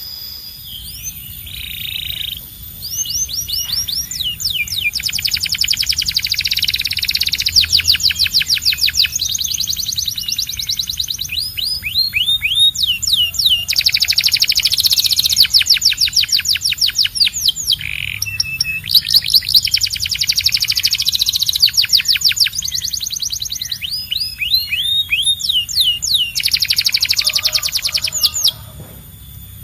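Domestic canary singing: a long, loud song of fast trills, runs of rapidly repeated high notes, broken into phrases by short pauses.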